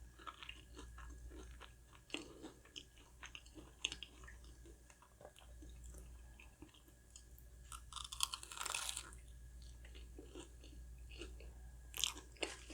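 Close-miked chewing of a fried, breaded potato ball, with soft crunches and small wet mouth clicks throughout and a louder crackly crunch about eight seconds in.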